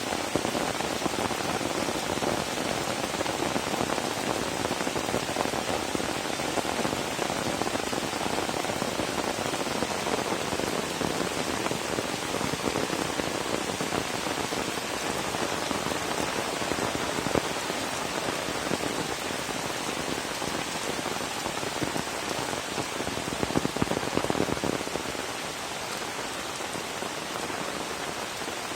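Steady rain falling, a dense patter of drops striking surfaces; it eases slightly near the end.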